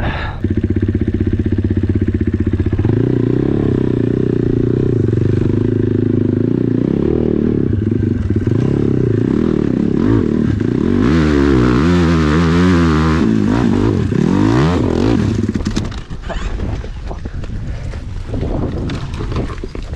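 Dirt bike engine revving hard under load on a steep hill climb, its pitch jumping up and down rapidly about 11 to 13 seconds in as the rear wheel spins and grabs. About 16 seconds in the engine note drops away, and clattering and scraping follow.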